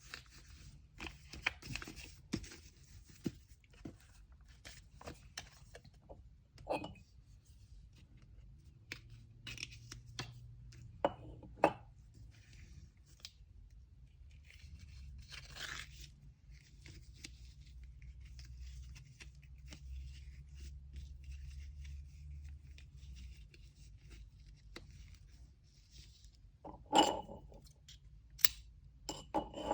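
Hands working with packing materials: short tearing and rustling strokes with small clicks and taps. There is a longer rustle about halfway through and a couple of louder knocks near the end.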